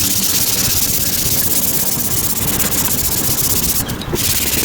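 240-grit wet and dry paper rubbed by hand over a plastic headlight lens, a steady scratchy rasp as the hazed, scratched surface is dry-sanded, breaking off briefly about four seconds in.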